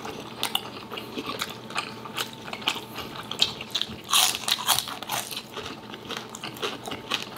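People chewing and crunching crispy food, a steady run of quick crackling bite clicks with a louder burst of crunching about four seconds in.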